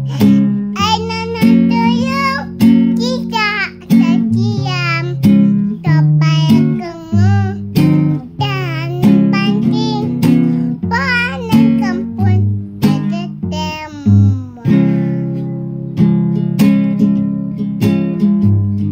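Singing voice with a strummed acoustic guitar accompaniment: a wavering sung melody over regular chord strums.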